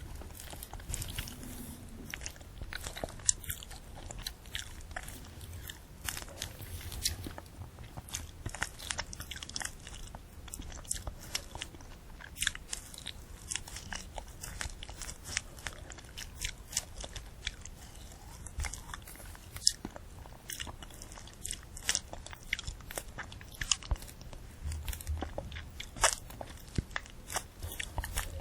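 Close-miked eating of a candy apple: the hard red sugar shell and crisp apple flesh crunching and being chewed, with many sharp, irregular crunches throughout.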